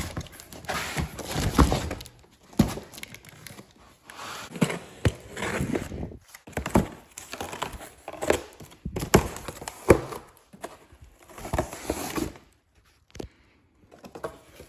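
Irregular knocks, thuds and packaging rustle as parts are taken out of a generator's accessory kit and set down.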